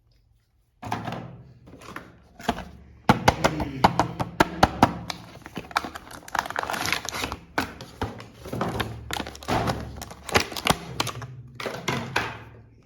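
Irregular clicks, taps and knocks, several a second, from hard plastic being handled, starting about a second in.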